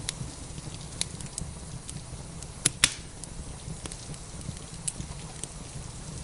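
Wood fire in a fireplace crackling, with scattered sharp pops, the two loudest close together near the middle, over a steady low rumble.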